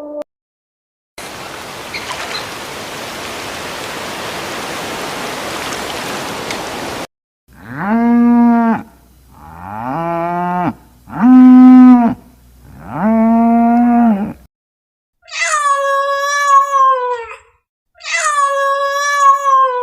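About six seconds of steady hiss, then animal calls: four drawn-out, even calls of about a second and a half each, followed by two higher-pitched, wavering calls that fall at the end.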